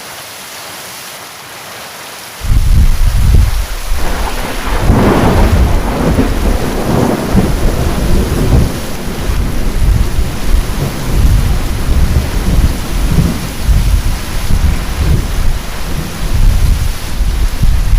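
Heavy rain falling steadily, then about two seconds in thunder breaks in suddenly and loudly. A sharper crack follows a couple of seconds later, and the thunder keeps rumbling, swelling and fading over the rain.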